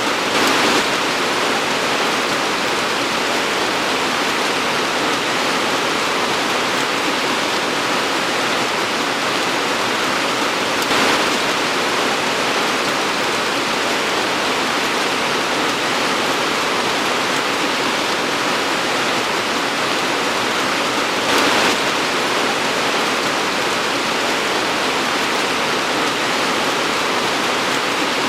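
Torrential rain pouring down in a steady, dense hiss, briefly louder three times: near the start, about eleven seconds in, and about twenty-one seconds in.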